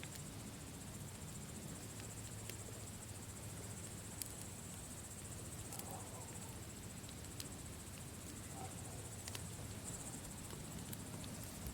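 Campfire crackling with scattered sharp pops over a low rumble, with a steady high-pitched insect trill behind it.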